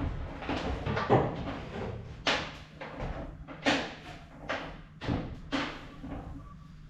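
Irregular knocks and thuds, about six of them spread over several seconds, as things are handled and moved about.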